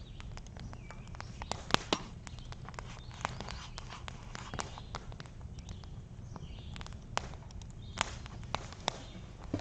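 Wood campfire crackling, with irregular sharp pops and snaps, a few louder than the rest, over a low steady rumble; a few faint bird calls now and then.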